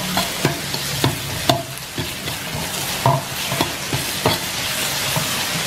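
Chopped onion, garlic, ginger and green chillies with red chilli paste sizzling in oil in an iron kadai while a metal ladle sautés them, scraping and clacking against the pan at irregular moments.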